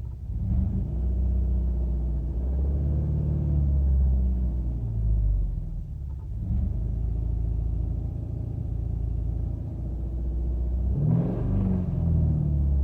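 2007 Subaru Outback 2.5i's 2.5-litre flat-four engine idling roughly at start-up. The low engine note is uneven, wavering and surging a few times.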